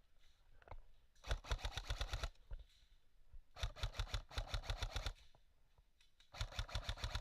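Airsoft electric gun firing three full-auto bursts of about a second each, with a rapid, even clatter of about a dozen shots a second.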